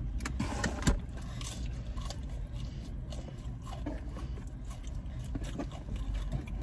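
Close chewing and mouth sounds of people eating pizza, with scattered small clicks and one sharp click a little under a second in, over a steady low hum in a car's cabin.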